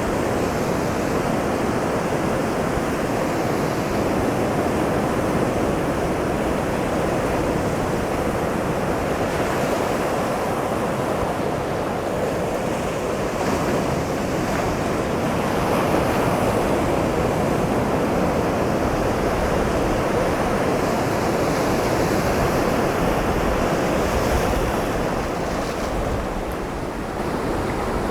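Ocean waves breaking against a rocky shoreline, a continuous surf wash with a slight lull near the end, with some wind buffeting the lavalier mic.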